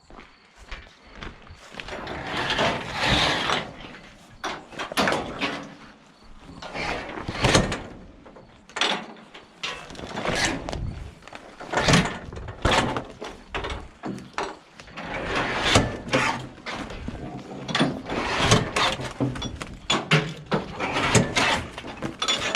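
Irregular knocks, clunks and scraping of things being handled and moved, many short strikes with no steady rhythm.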